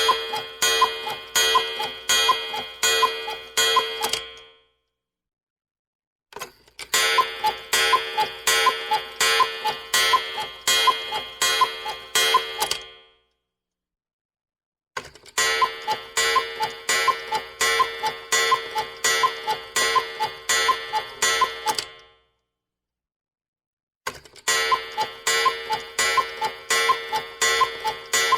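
Cuckoo clock sound effect: runs of evenly spaced ringing strokes, a little over two a second, each run lasting about six to seven seconds. The runs are cut apart by short silent gaps: one ends about four seconds in, two full runs follow, and a fourth begins near the end.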